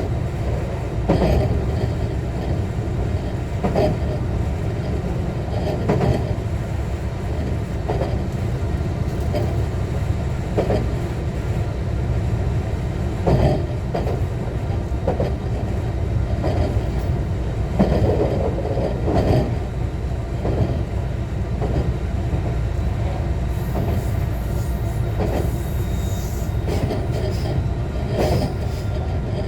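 JR West 125 series electric railcar running along the line, heard from on board: a steady rumble with the wheels clicking over rail joints every second or two.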